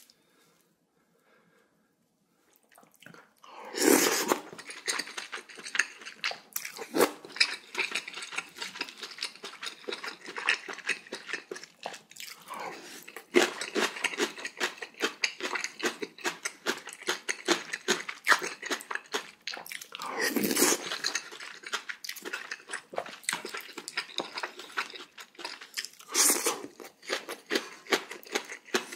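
Close-miked eating: a person crunching and chewing crunchy cubed radish kimchi (kkakdugi), with dense wet mouth clicks and a few louder bites. The eating starts about three seconds in, after a near-silent pause.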